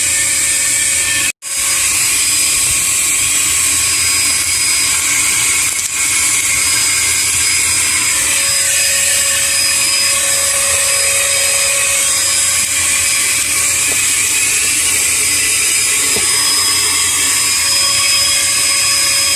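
Vacuum cleaner running steadily as it sucks up dirt and debris from a car's interior, with one brief break about a second in.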